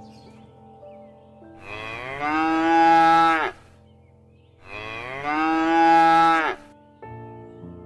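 Cow mooing twice: two long, loud moos about a second apart, each dropping in pitch at the end.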